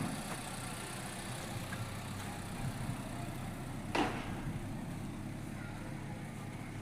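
A car in motion: steady low engine and road hum, with a single short knock about four seconds in.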